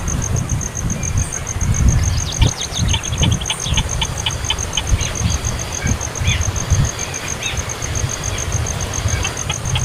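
A baby bird giving quick series of short, high begging chirps over a loud low rumble. A steady pulsing high trill, like a cricket, runs under it.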